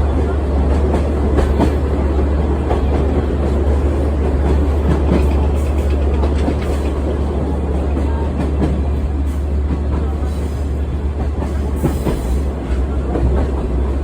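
A tourist trolley train running along the track: a steady low rumble with the wheels clattering irregularly over the rails.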